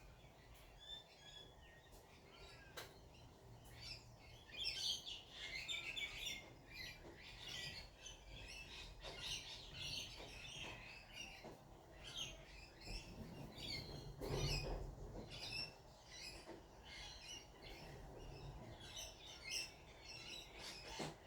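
Wild birds chirping: many quick, high chirps overlapping, busiest from about four seconds in. There is a low thump about two-thirds of the way through.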